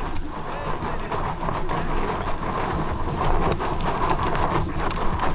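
Fat-tire e-bike climbing a steep dirt hill: the tyres crunch over loose dirt and stones with many small clicks and a steady rumble, as of wind on the microphone.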